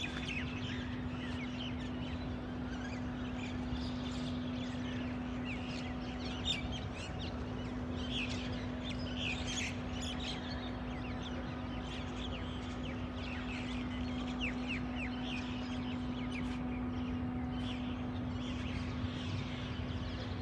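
Many small birds chirping and calling over one another in quick, overlapping notes, over a steady low hum.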